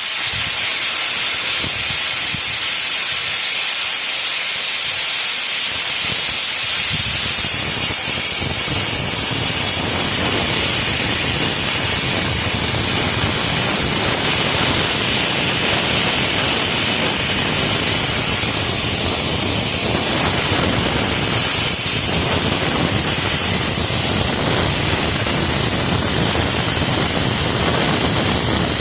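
Loud, steady hissing rush that starts suddenly, with a deeper rushing filling in after about seven seconds.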